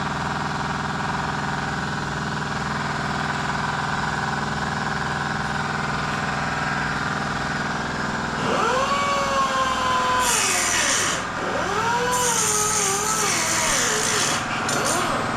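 A steady engine-like hum runs throughout. About eight seconds in, a power tool's high whine spins up, sags and recovers, with a hiss while it bites, typical of an angle grinder cutting steel.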